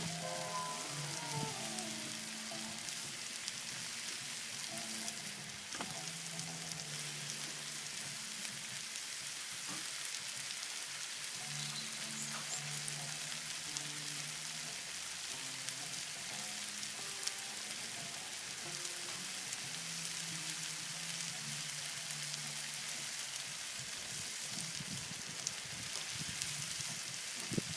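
Chicken curry with meat and curry powder sizzling and frying steadily in a large skillet pan on a barbecue.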